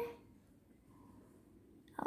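Near silence: room tone, just after a held sung note dies away at the start, with a voice starting at the very end.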